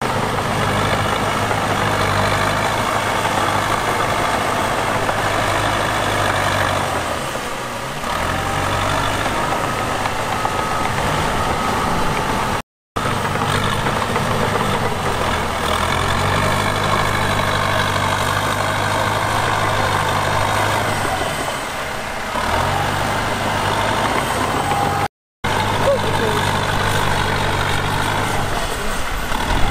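Heavy diesel engine of earthmoving machinery running under load, its note sagging briefly twice, with a few short silent breaks where the audio is cut.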